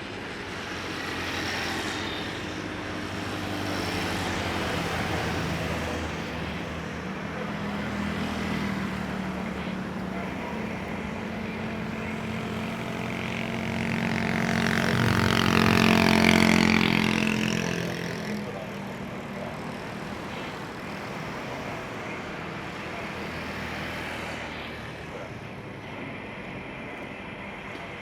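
Jet airliner engine noise from an aircraft taking off. It swells to its loudest about halfway through, with a whine that falls in pitch as it passes, then settles back to a steady rumble.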